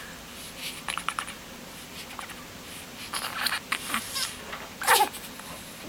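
Dolphin-like noises: several short bursts of rapid clicking squeaks, and a squeal that falls in pitch about five seconds in.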